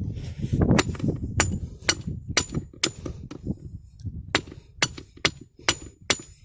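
Steel T-post being driven into sandy ground by repeated metal-on-metal blows, about two a second, each strike giving a short high ring.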